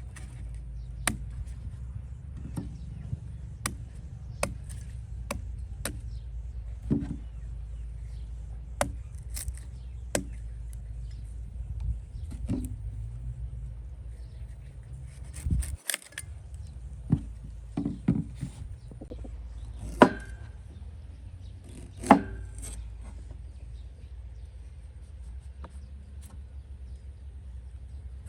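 Food being chopped on a wooden board: irregular sharp knocks, roughly one or two a second at first and sparser later, with two louder knocks about two-thirds of the way in, over a steady low rumble.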